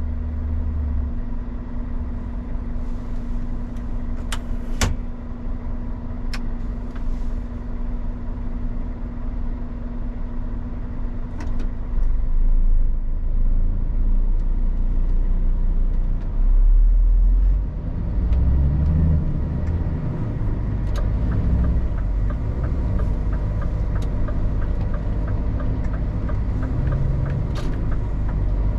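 Scania R450 truck's diesel engine running, with a steady low rumble that grows louder from about twelve seconds in as it pulls harder. A few sharp clicks come early on, and a regular rapid ticking runs through the last several seconds.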